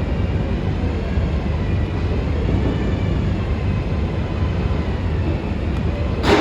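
Steady low rumble of a running vehicle, with a single sharp click near the end.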